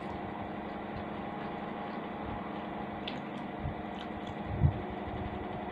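A person chewing a mouthful of fried instant noodles, with faint mouth sounds and a few small clicks over a steady mechanical hum. A low thump comes about four and a half seconds in.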